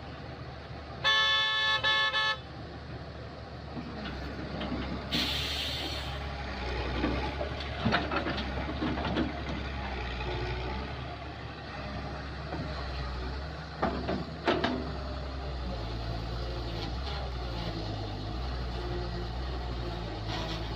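Kobelco excavator's diesel engine running steadily at work, with a few sharp knocks. About a second in, a vehicle horn sounds once for just over a second, and a short hiss follows a few seconds later.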